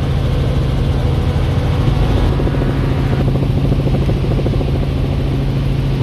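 An engine running steadily, with a strong low hum and a fast even pulsing.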